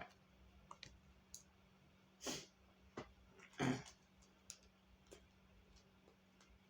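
Tarot cards being handled on a table: scattered light clicks and two short brushing sounds, about two and three and a half seconds in, over a faint steady hum.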